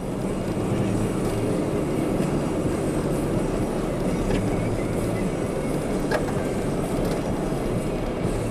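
Steady engine and road noise heard inside a 4x4 driving through a snowstorm, with a low hum and a couple of faint ticks.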